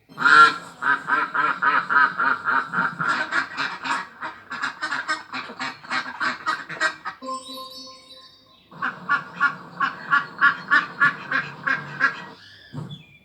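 Ducks quacking in a fast, repeated run of calls. The calls break off briefly about seven seconds in, then start again.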